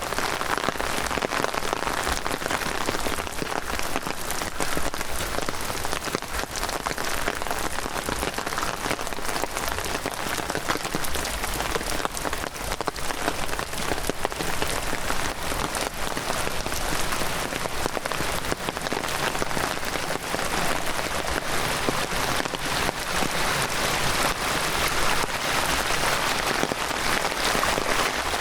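Heavy rain falling steadily, a dense hiss of countless small drop hits with no letup.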